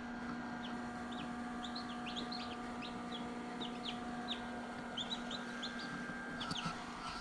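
Newly hatched chicks peeping: many short, high cheeps that drop in pitch, several a second, over a steady low hum.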